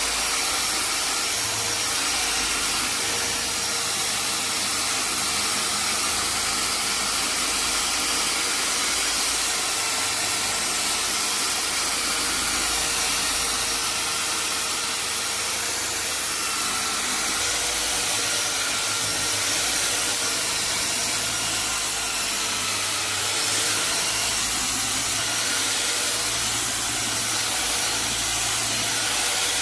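A small high-speed electric motor running steadily with a high whine over an airy hiss, its pitch wavering slightly up and down.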